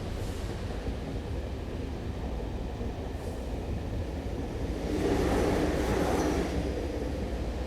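Diesel train rumbling at a railway station, a steady deep drone. About five seconds in, a louder rush of noise swells for a second and a half, then falls back.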